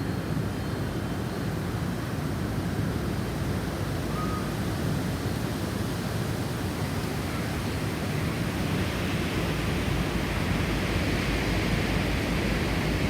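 Snowstorm wind blowing steadily, swelling into a stronger gust in the second half.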